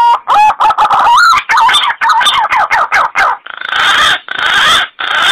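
Punai (green pigeon) call used as a lure: a run of whistled notes that bend in pitch and quicken into a fast series. Near the end come three harsh, rasping notes.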